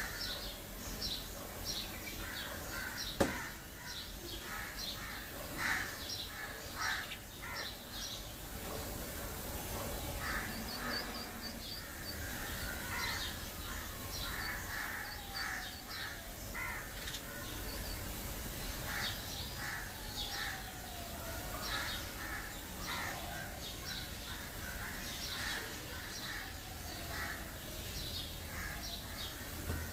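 Several birds calling in many short, repeated notes, with one sharp click about three seconds in.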